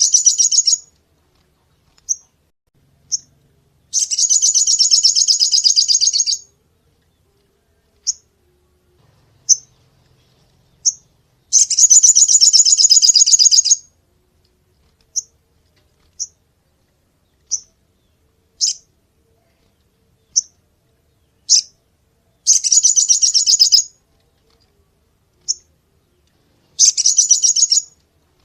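Crimson sunbird (sogon) calling: sharp, high single chips about every second or two, broken four times by a rapid, buzzy trill lasting about two seconds.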